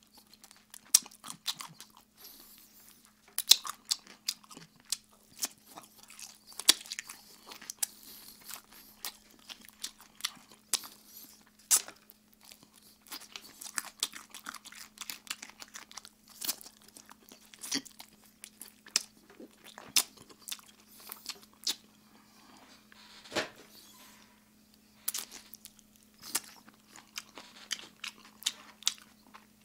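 Close-miked biting, crunching and chewing of crispy Kyochon Red Combo fried chicken, with irregular crunchy bites throughout. A faint steady hum runs underneath.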